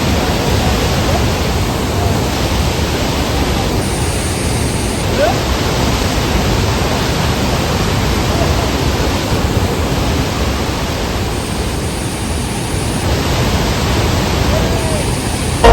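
Steady rushing of white water over the Kalagala Falls rapids on the Nile, heard up close as a loud, even noise.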